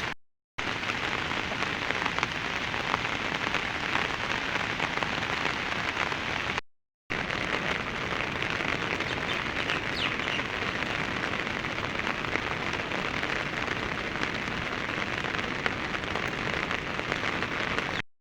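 Steady rain falling: an even hiss with fine ticks of drops. It drops out to silence briefly twice, near the start and about a third of the way in, and stops abruptly just before the end.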